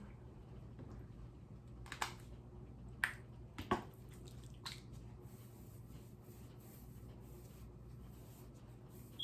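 Hands working curling gel through coily hair, with four short, sharp crackling snaps in the first five seconds.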